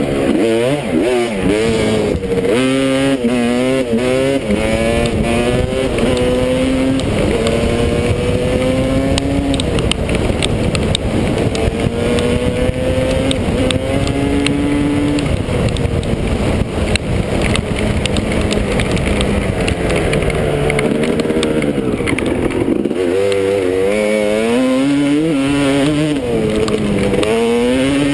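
Motocross bike engine revving hard: quick throttle blips, then long rising pulls that drop back as it shifts. It eases off about two-thirds of the way through and blips again near the end, with many sharp ticks scattered over the engine sound.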